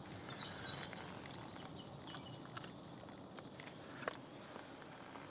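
Quiet woodland ambience with faint, short, high bird chirps in the first couple of seconds and a few light clicks, the sharpest about four seconds in.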